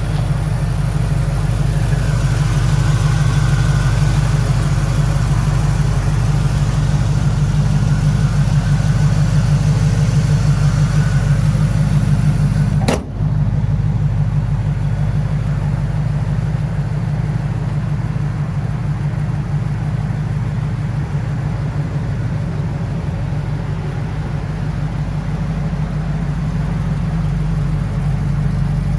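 Ram Jet 350 fuel-injected small-block V8, breathing through headers and dual exhaust, idling steadily. A short click and a brief dip in level come partway through.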